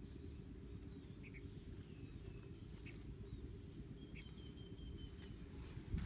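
Faint chirps of small birds: a few short calls and one thin held whistle about four seconds in, over a steady low background rumble.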